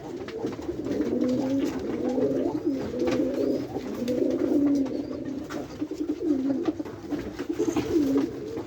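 Several domestic pigeons cooing at once, their low, wavering coos overlapping without a break.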